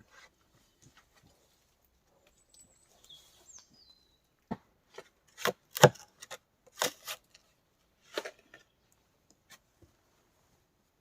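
Series of sharp chopping strikes of a shovel blade cutting into earth and roots while digging a pit, irregular and bunched in the middle, the loudest about six seconds in. A faint high chirp falling in pitch comes a few seconds before the strikes.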